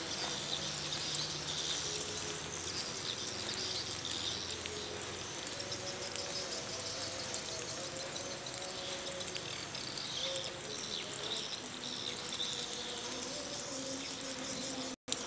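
Steady outdoor chorus of insects, high and shimmering, with faint bird chirps mixed in. The sound cuts out for an instant near the end.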